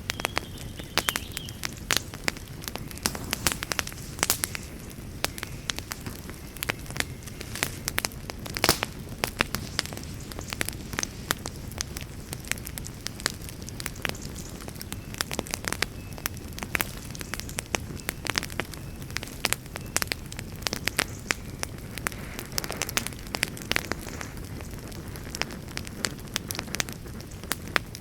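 Wood fire crackling steadily, with frequent irregular sharp pops and snaps over a low, continuous rumble of flames.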